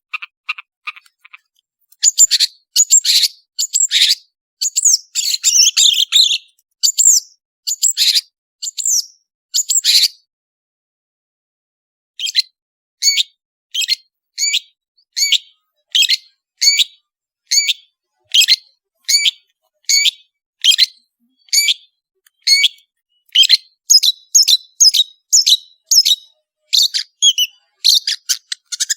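Long-tailed shrike (cendet) calling loudly. A burst of dense, harsh chattering gives way after a short pause to a long run of sharp, evenly spaced call notes that come quicker near the end.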